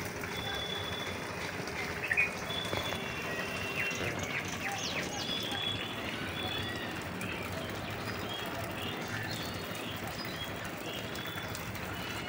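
Birds chirping: a cluster of short, quick chirps about two to five seconds in, and a high thin note repeated at intervals, over a steady background hiss.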